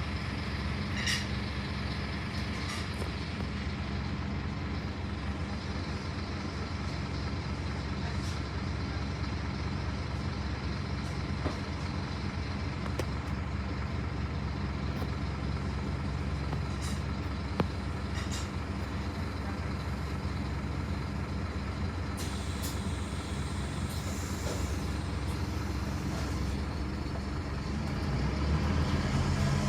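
2008 Scania N230UD Omnicity double-decker bus heard from the upper deck while under way: its five-cylinder diesel engine runs with a steady low hum, with a few light rattles and clicks from the body, and the engine gets louder near the end.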